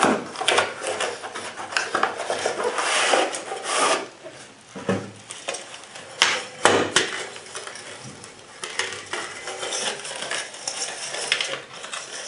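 Hard-anodized aluminium camp tea kettle being taken out and handled: irregular metallic clinks and clatter over rustling, with two sharper knocks a little past halfway.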